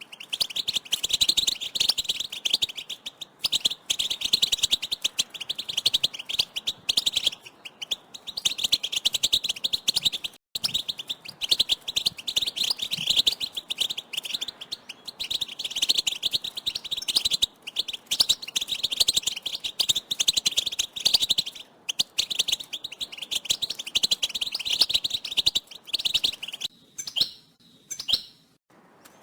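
A group of European goldfinches twittering: a dense, rapid chatter of calls, broken by brief pauses, with a few separate calls near the end. This is the excited group contact-call chatter ('batbata') that goldfinch keepers play to set a male singing.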